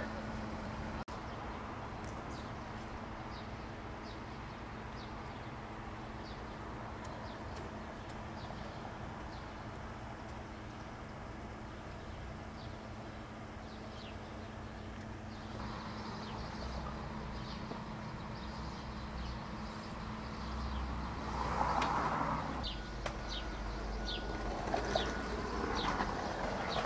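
Small birds chirping in short, repeated high notes over a steady low background rumble, with a louder noise swelling briefly about twenty-one seconds in.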